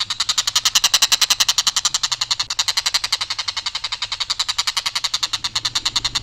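Tengkek buto kingfisher giving its harsh, monotone rattling call: a long unbroken series of about a dozen rapid notes a second, on one pitch without ornament.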